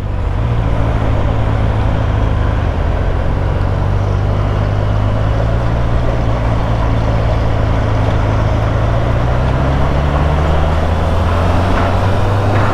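Motorcycle engine running steadily at road speed, with wind rush over the microphone; the engine note rises slightly near the end.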